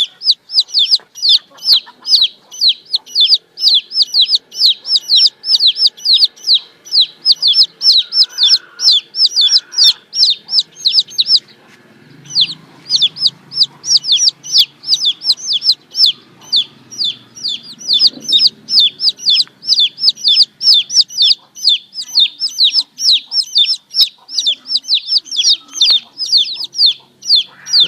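Baby chicks peeping loudly and without letup, about four shrill peeps a second, each falling in pitch, with a short break about eleven seconds in.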